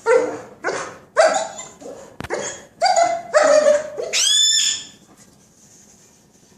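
A run of short, loud bark-like animal calls, about two a second, then a shrill call rising in pitch about four seconds in, after which it goes quieter.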